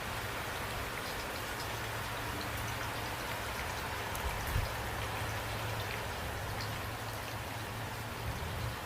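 Steady rain falling, an even hiss with scattered individual drops pattering on a surface, over a low rumble. A single soft low thump about four and a half seconds in.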